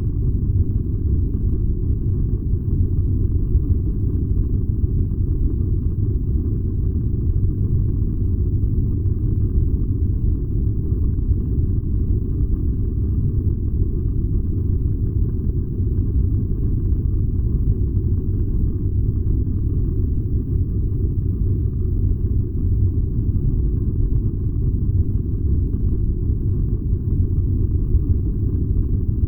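Furnace running: a steady low rumble that holds even throughout.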